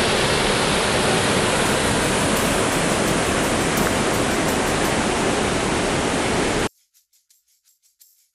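Waterfall rushing: a loud, steady noise of falling water that cuts off suddenly near the end.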